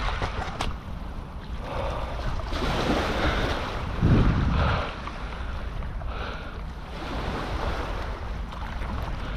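Wind buffeting the microphone over the sound of river water, with a stronger gust about four seconds in.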